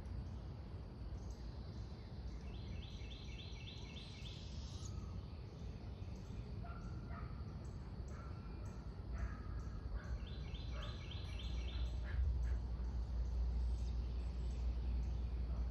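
Birds calling: two quick high trills of repeated notes, one early and one after about ten seconds, with scattered short lower notes in between. Over a background of outdoor noise, a low rumble gets louder near the end.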